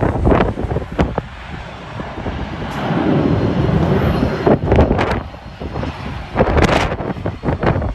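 Jet aircraft engine noise at an airport, broken up by wind gusts buffeting the microphone in repeated thumps.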